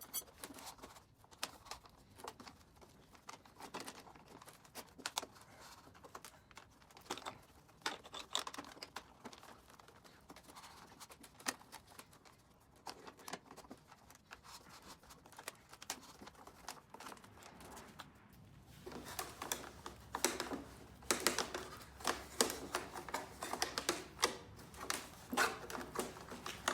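Aluminum tubing being wound by hand into a tight coil around posts with eye screws: irregular clicks, taps and scrapes of the metal tube, growing louder and busier about two-thirds of the way through.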